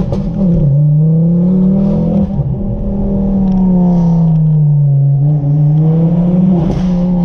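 Tuned Ford Focus RS turbocharged engine under hard acceleration, the revs climbing, holding, easing and climbing again through the gears. Short bursts of exhaust crackle come at the start and again near the end.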